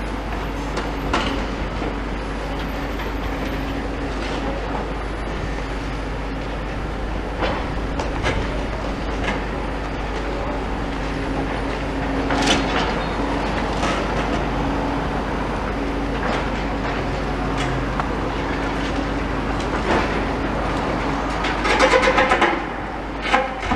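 Demolition excavator at work, its diesel engine running steadily, with scattered clanks and crunches of masonry and debris being broken. A quick run of loud knocks comes about 22 seconds in.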